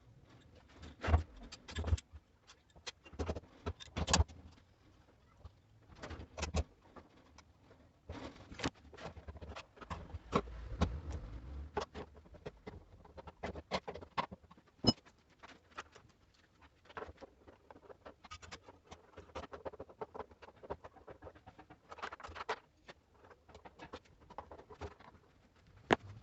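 Irregular clicks and knocks of hand tools and washing-machine parts being handled, with a few sharper strikes.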